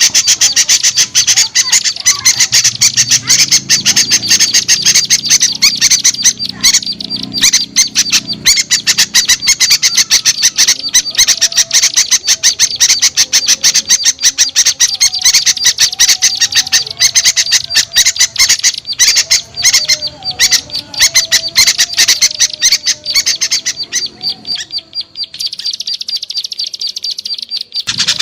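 Bird-lure recording of many small birds calling together in a noisy, dense chatter of rapid calls. The mix changes about three seconds before the end.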